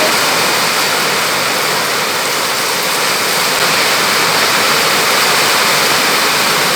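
Heavy rain pouring down, a loud and steady rush of falling water that cuts off suddenly at the end.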